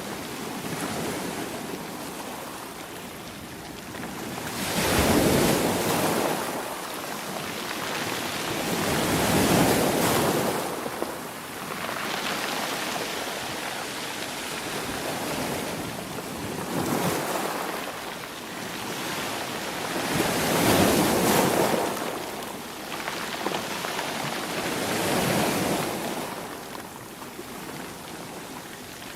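Ocean waves breaking and washing on the shore, a surge of surf swelling and falling back every four to five seconds.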